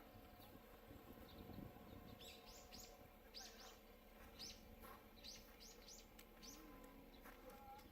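Faint bird calls: a run of short, high chirps repeated over a few seconds in the middle, over quiet outdoor background.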